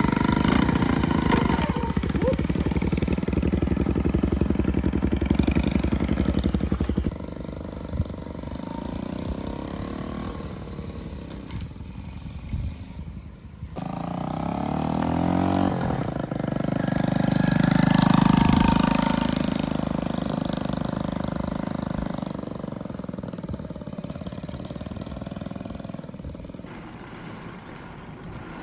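Small motorcycle engine running, idling and revving, in several stretches that change abruptly. About halfway through, a rev rises in pitch to the loudest point.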